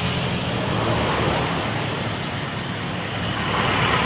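Motor vehicle engine running with road traffic noise, a steady low hum under a broad rushing noise.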